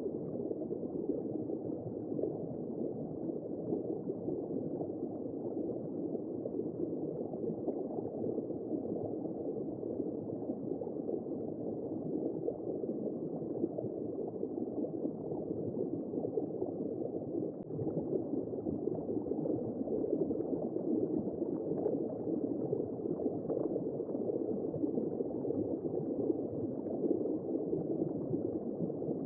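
Womb-sound white noise: a steady, muffled rushing noise with no high tones.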